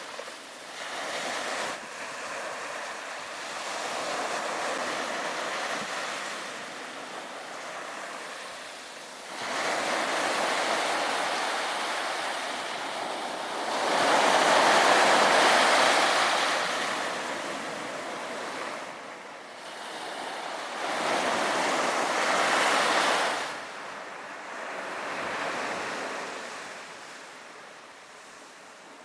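Sea waves breaking and washing on a beach in slow surges, the loudest about halfway through and another a few seconds later, then fading away near the end.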